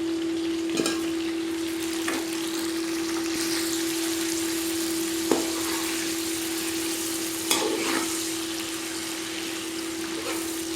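Potatoes and browned onions frying in hot oil in a pot, a steady sizzle, with a few sharp knocks of a spoon stirring against the pot. A steady hum runs underneath.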